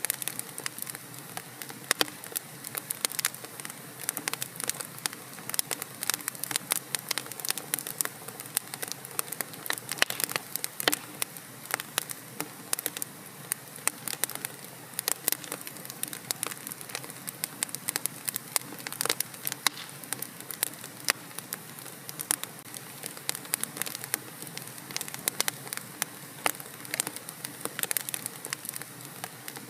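Wood fire in a fireplace crackling steadily, with many sharp irregular pops and snaps over a soft hiss.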